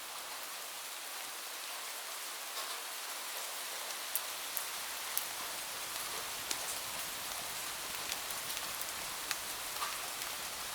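Steady rain falling, a continuous hiss with scattered small sharp ticks of drops landing.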